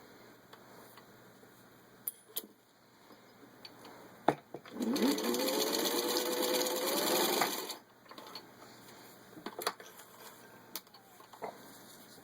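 Singer 15-91 sewing machine, with its gear-driven potted motor, stitching through four layers of vinyl upholstery. It runs in one burst of about three seconds, its pitch rising as it speeds up, then stops. Small clicks of handling come before and after.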